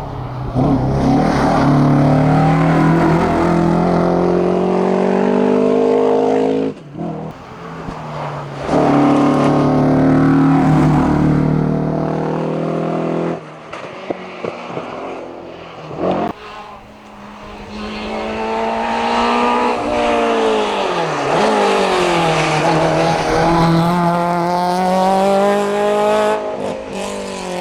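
Race car engines at full throttle on a hillclimb: an Alfa Romeo Giulia GTA held at high revs, with two brief lifts for gear changes. About halfway through it gives way to a Peugeot 205, whose engine drops in pitch and then revs back up as it accelerates.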